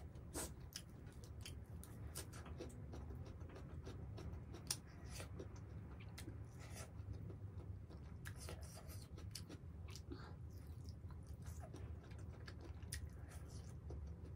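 A person chewing a mouthful of pork curry and rice close to the microphone, with many small, irregular wet clicks over a steady low hum.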